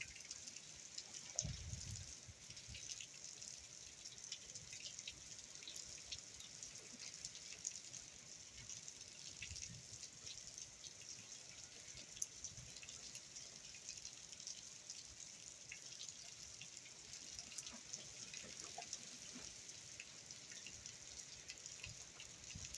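Steady hurricane rain falling, with drips and light patter throughout, and a few low thuds along the way.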